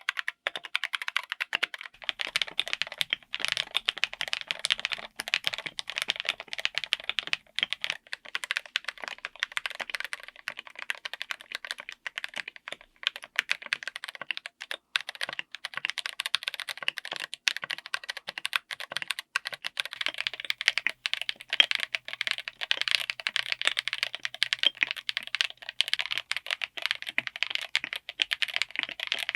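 Continuous fast typing on a mechanical keyboard fitted with linear switches: a dense, steady run of keystroke clacks, many per second.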